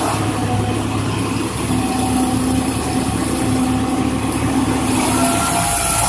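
An engine on heavy machinery running steadily at an even speed. A higher steady tone joins it near the end.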